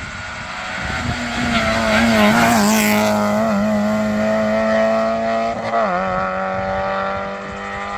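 Modern rally car engine at high revs on a special stage, its note wavering, then holding steady. The pitch drops suddenly a little before six seconds in.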